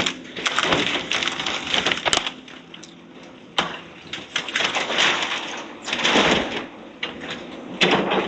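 Debris from a house being torn down crunching, cracking and clattering in several loud bursts with sharp knocks between them, over a faint steady engine hum.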